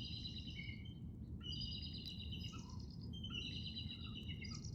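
Songbirds chirping: short phrases of rapid, high chirps repeating about every second and a half, over a low steady background noise.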